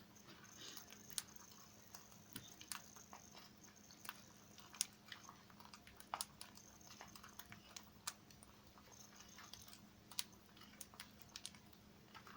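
Pet parrot eating, its beak making faint, irregular clicks and small crunches on the food, with a faint steady hum underneath.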